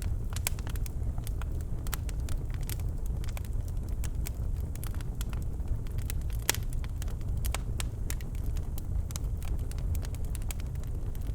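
Birchwood fire crackling in a fireplace: scattered sharp pops and snaps, one louder pop about six and a half seconds in, over a steady low rumble of the burning fire.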